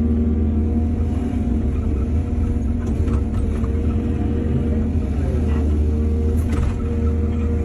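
Excavator's diesel engine running steadily, its pitch dipping briefly about five seconds in, with a few faint clanks.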